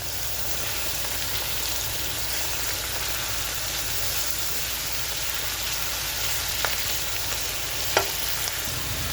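Onions, peppers and mixed vegetables sizzling as they fry in a pan, a steady hiss. Two light clicks come near the end.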